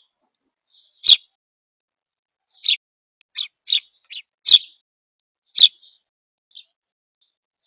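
House sparrow chirping: about eight short, single chirps at irregular intervals, with clean silence between them.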